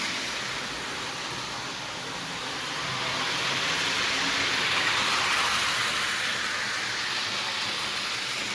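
Marx electric toy train running on its track: a steady whirring and rattling of the small motor and wheels on the rails, growing a little louder around the middle and easing off again.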